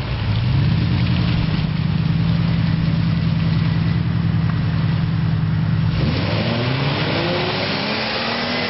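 Off-road Jeep's engine driving through mud: it revs up just after the start and holds a steady pitch, then from about six seconds in climbs through several rising revs.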